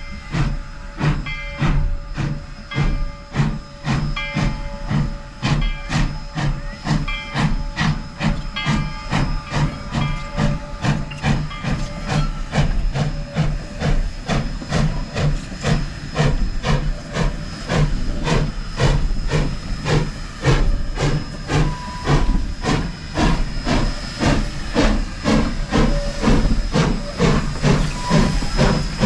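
Narrow-gauge Baldwin 4-6-0 steam locomotive No. 18 chuffing in an even beat of about two to three exhausts a second, with steam hissing throughout.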